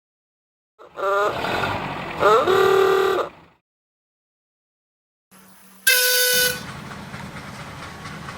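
Steam whistle blown twice in long blasts, each sliding up in pitch as it opens. A few seconds later comes a shorter, shriller whistle with a hiss of steam, followed by a steady low engine rumble.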